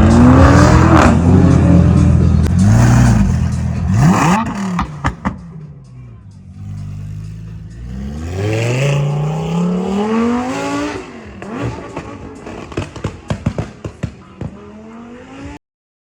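A car engine is revved several times, its pitch climbing and dropping with each blip and one longer climb in the middle. Sharp pops and crackles from the exhaust come near the end.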